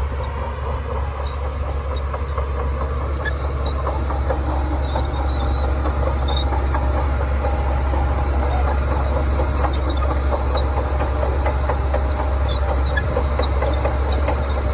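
Shantui crawler bulldozer's diesel engine running steadily under load, with a dense rapid clatter from its steel tracks that grows a little louder over the first few seconds.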